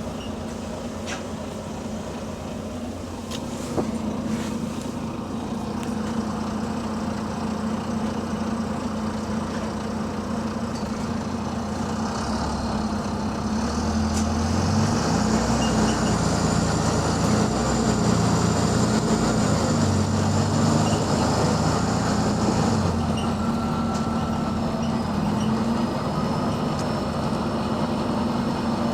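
Diesel engine of the WVL460 double-decker bus pulling away and accelerating, rising in steps through its gears from about halfway through, with a high whine over the climb and a few sharp clicks early on. The bus has an exhaust leak.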